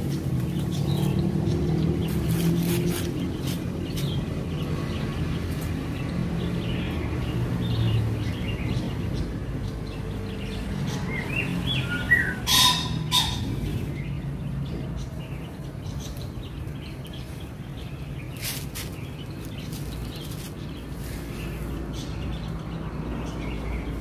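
Short bird chirps here and there, with a cluster of quick rising and falling chirps about halfway through, over a steady low rumble; a couple of sharp knocks come just after the cluster.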